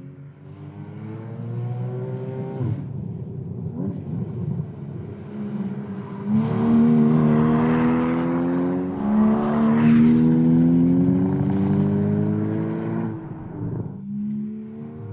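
2013 Porsche Cayman S's 3.4-litre flat-six engine pulling hard on track, its pitch climbing under acceleration. It eases off about 3 s in, then makes a longer, louder pull from about 6 s to 13 s before lifting off near 14 s.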